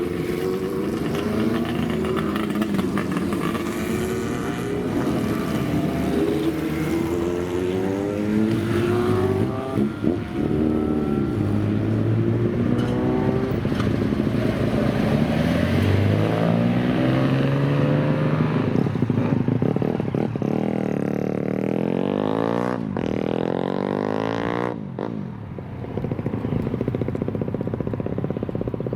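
Classic motorcycle engines revving, their pitch climbing and falling again and again, with two engines' revs crossing each other late on, then settling to a steadier run near the end.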